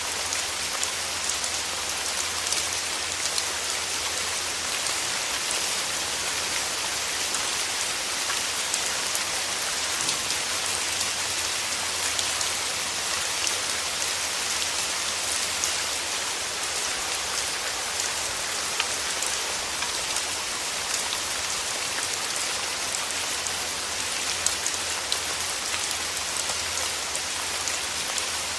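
Steady rain falling on a surface: an even hiss sprinkled with many small drop ticks.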